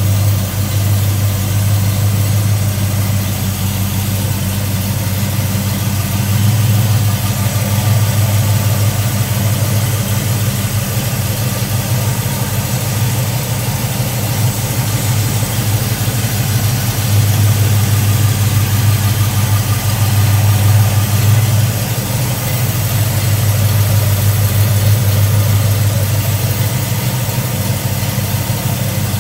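V8 engine of a 1968 Pontiac LeMans idling steadily, heard from the open engine bay, with a low, even hum.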